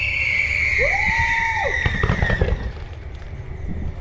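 Fireworks going off: a whistling firework's shriek falls slowly in pitch through the first two and a half seconds, with a shorter whistle rising and falling about a second in, over sharp crackling pops and a low rumble. It grows quieter in the last second or so.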